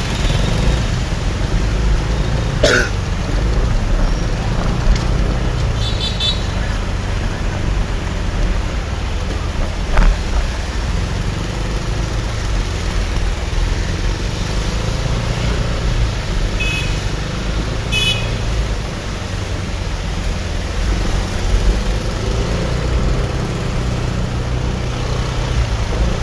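Street traffic heard from a moving motorcycle: a steady low rumble of engines and road, with short horn beeps about six seconds in and twice more in quick succession past the middle.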